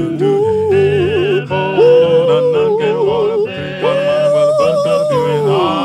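Gospel vocal group singing: a lead voice holds long wavering notes without words over sustained lower harmony voices and accompaniment, the last held note sliding down near the end.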